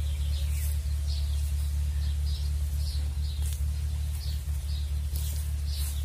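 Small birds chirping, short high calls repeating every half second or so, over a steady low hum that is the loudest sound.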